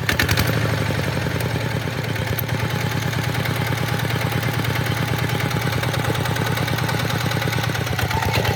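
Tractor engine running steadily with an even, rapid pulsing beat.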